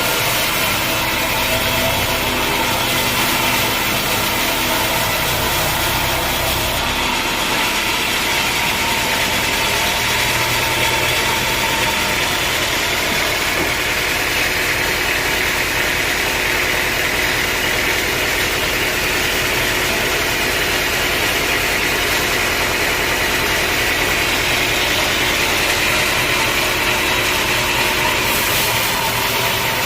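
Sawmill machinery running steadily, a motor-driven saw with a continuous mechanical hum and the hiss of cutting through dense hardwood. The low hum shifts about seven seconds in, and the higher cutting noise grows stronger through the middle.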